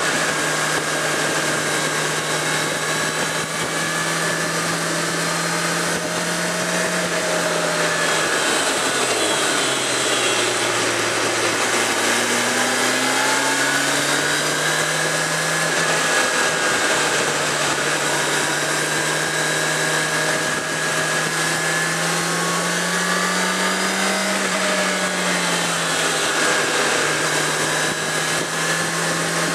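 Suzuki GSX650F inline-four engine running under way at steady revs, heard on board with wind and road noise over it. The engine note drops about nine seconds in as the bike eases off, stays low for several seconds, then picks back up. It climbs briefly again near the end.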